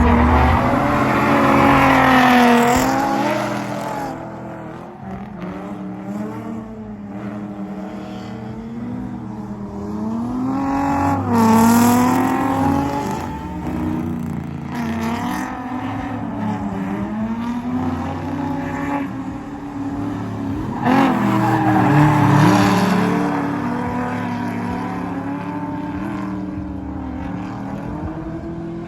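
Drift cars' engines revving hard up and down, with tyre squeal, as cars go by; the loudest passes come about 2, 11 and 22 seconds in.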